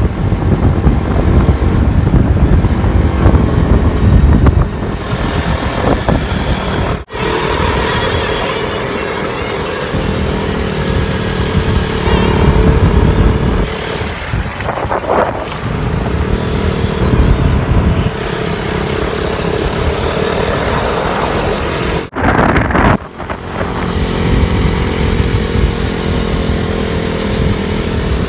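KTM RC 200's single-cylinder four-stroke engine running, its pitch holding steady for stretches and shifting in between. The sound breaks off abruptly twice, about a third of the way in and again near three-quarters.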